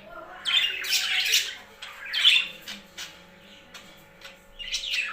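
Pet birds squawking with harsh, grating calls in three bouts: a long one starting about half a second in, a shorter one around two seconds, and another near the end.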